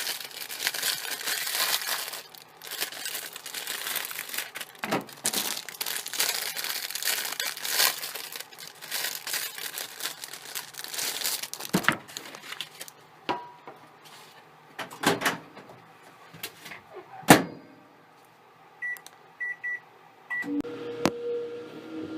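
Packaging rustling and crinkling for about the first twelve seconds, then a few separate knocks and thunks. Near the end, a microwave's keypad beeps three times and a steady hum sets in as it starts cooking the corn dogs.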